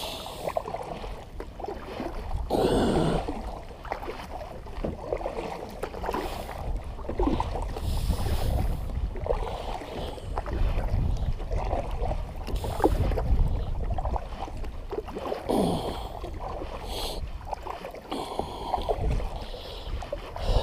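Water splashing and lapping around a small plastic kayak, several splashy swishes a few seconds apart, with wind rumbling on the microphone throughout.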